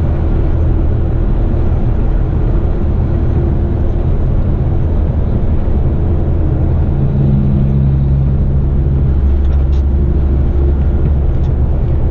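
Heavy eight-wheeler twin-steer rigid truck on the move at road speed: a steady low engine and road rumble. The engine tone grows stronger for about two seconds around seven seconds in.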